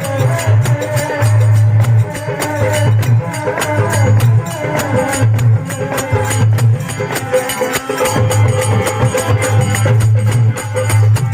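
Rajasthani folk bhajan music: dholak and small percussion keep a steady beat under a held low drone and a wavering melody line.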